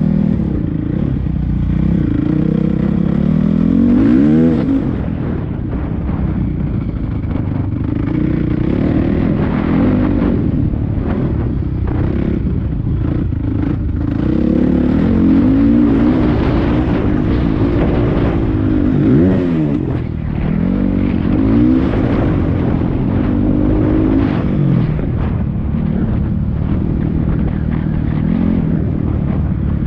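A 450cc four-stroke motocross bike being ridden on a track, the engine revving up and falling back again and again as the rider works the throttle and gears.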